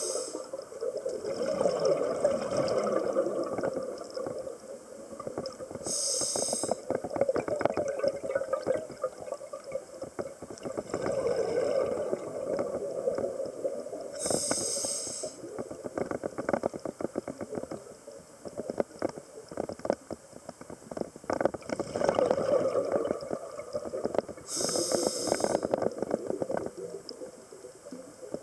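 Scuba diver breathing through a regulator, heard underwater: four short hisses of inhalation, each followed by several seconds of bubbling exhaled air.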